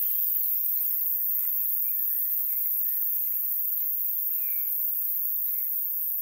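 Small birds chirping and calling, short curving notes scattered through, over a steady high hiss.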